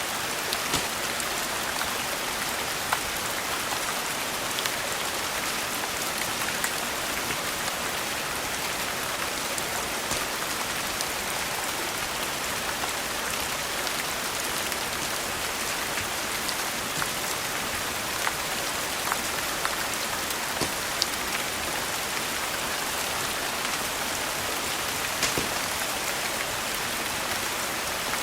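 Steady rain on a surface, with a wood fire crackling in scattered sharp pops.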